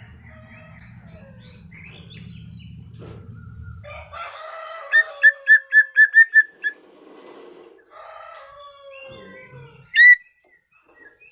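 White-rumped shama (murai batu medan) singing varied whistled phrases, with a quick run of about eight repeated notes about five seconds in and a loud rising whistle near the end. A low hum lies underneath for the first four seconds.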